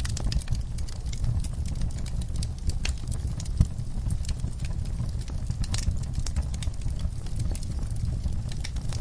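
Wood fire burning in a fireplace: a steady low rumble of flames with frequent small crackles and pops of the burning logs, and one louder pop about three and a half seconds in.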